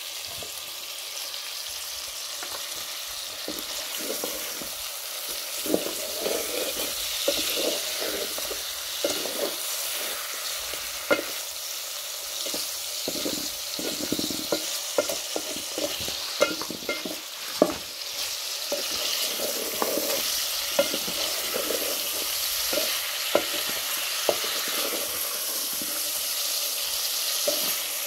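Beef and onions sizzling in oil in a metal pot, stirred with a wooden spoon. Through the middle the spoon knocks and scrapes against the pot many times.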